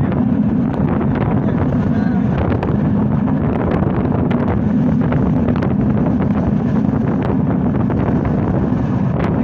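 Passenger train running at speed: a steady, loud rumble with wind buffeting the microphone and a few sharp clicks scattered through it.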